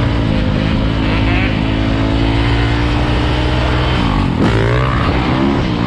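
Motorcycle engine idling steadily, then revved up and down several times starting about four seconds in.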